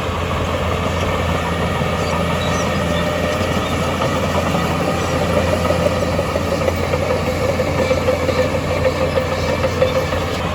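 Heavy diesel earthmoving machinery running steadily, with a constant low engine hum. A wavering mid-pitched tone grows louder in the second half.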